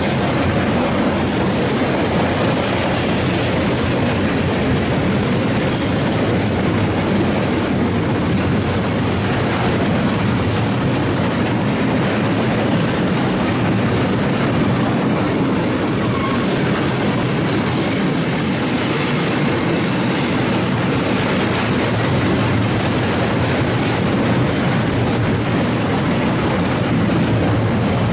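Freight train of bogie tank wagons rolling past, the steady loud noise of steel wheels running on the rails.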